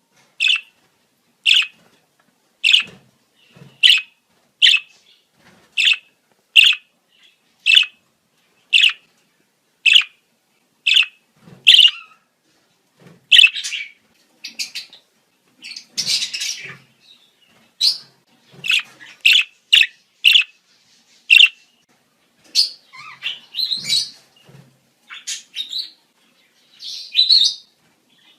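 Budgerigars calling in breeding season: short, sharp chirps repeated about once a second, breaking into denser, more varied warbling chatter about halfway through.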